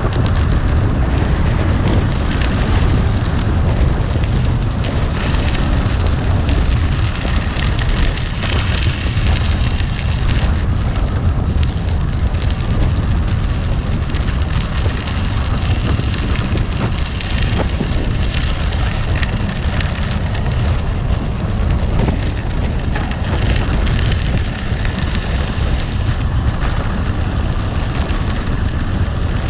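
Gravel bike tyres rolling and crunching over rough gravel, with a heavy low rumble and frequent small clicks and rattles.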